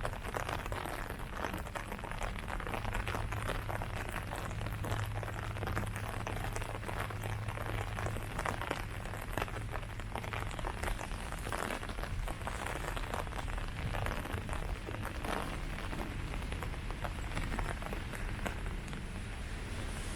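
Steady rain falling on foliage: a dense, even patter of countless drops hitting leaves, with a steady low hum underneath.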